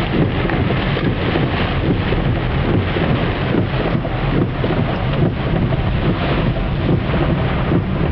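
Loud, steady rush of heavy tropical-storm rain and water noise around a car on flooded streets.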